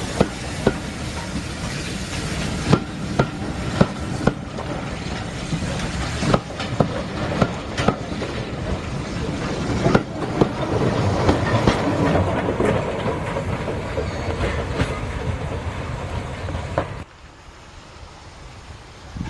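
A steam-hauled train of passenger coaches passing close by: a steady rumble with wheels clicking over rail joints at intervals. Near the end it drops to a quieter, more distant rumble.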